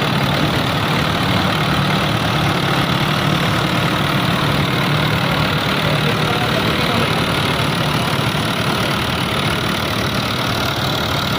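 Fiat 640 tractor's diesel engine running steadily and loudly.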